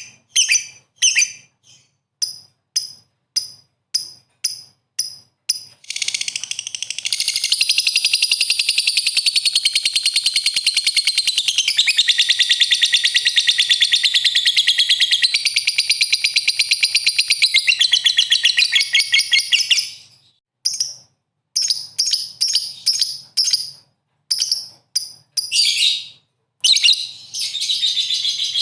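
Songbird song used to provoke caged fighter songbirds into answering. It starts as short, high chirps about two a second, breaks into a long, fast trilling chatter of about fourteen seconds, then goes back to chirps and a further fast run near the end.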